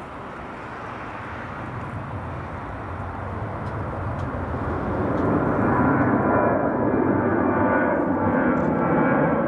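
Jet airliner taking off, its engine noise swelling louder over about six seconds and then holding loud, with a faint tone falling in pitch near the end.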